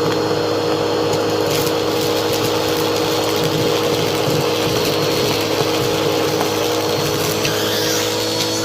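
Bissell vacuum cleaner running steadily, its motor giving a constant hum and whine over a rushing hiss of air, with scattered small crackles of fine dirt being sucked up.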